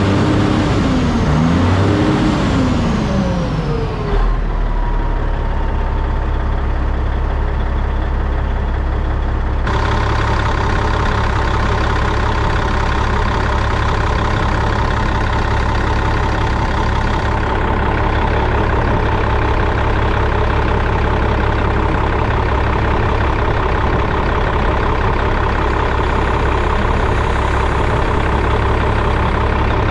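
Heavy truck diesel engine, a Caterpillar in a Western Star 4964F, revved up and back down twice, then left running steadily. About ten seconds in, the sound turns abruptly fuller, with a steady whine.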